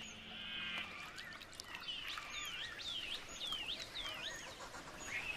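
Birds calling over faint outdoor background noise: a run of about six quick down-slurred calls in the middle, with scattered short high notes.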